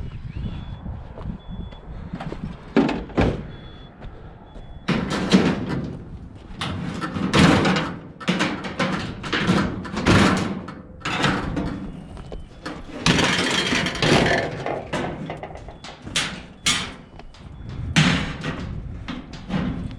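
A run of bangs, thuds and scraping noises from objects being handled and moved, busiest from about five seconds in. A faint high beep repeats in the first few seconds.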